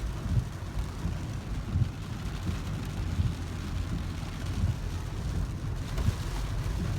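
Heavy rain falling on a moving car, heard from inside the cabin over a steady, uneven low rumble from the road and car.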